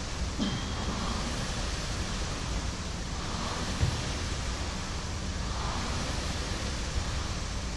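Concept2 rowing machine's air-resistance flywheel whooshing with each pull, a swell about every two and a half seconds from slow, tired strokes, with a couple of clunks from the machine.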